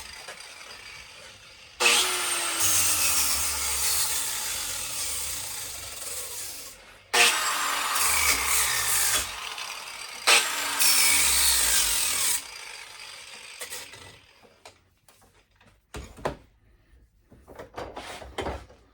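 A handheld power tool run in three bursts, each starting sharply and winding down with a falling pitch, followed by a few light clicks and knocks of handling.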